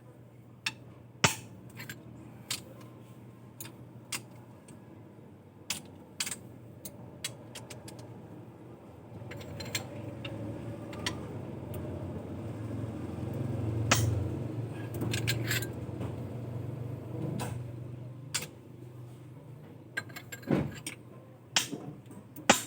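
Metal hand tools and parts clinking and clicking sporadically during engine work, over a low steady hum and a rumble that swells and fades around the middle.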